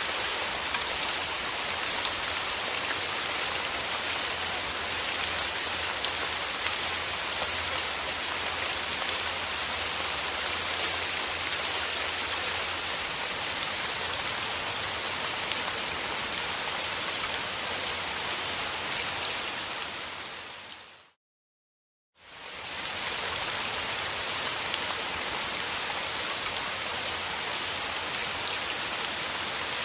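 Steady rain falling on surfaces, a dense even patter with individual drops standing out. About two-thirds of the way through, the rain fades out to a second of silence and then fades back in, an edit or loop point in the recording.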